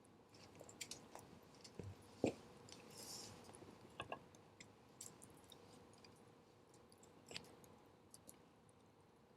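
Wood campfire crackling faintly with scattered sharp pops, the loudest a little over two seconds in, and a brief hiss about three seconds in.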